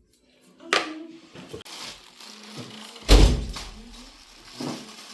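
A few knocks and thuds, the loudest a heavy thunk with a deep low end about three seconds in.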